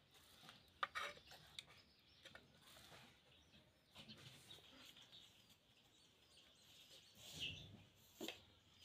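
Near silence, with a couple of faint sharp taps about a second in and a few faint bird calls near the end.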